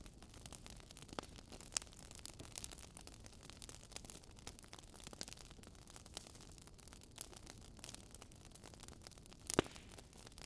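Wood fire crackling faintly, with irregular small pops over a low steady hiss and one louder pop near the end.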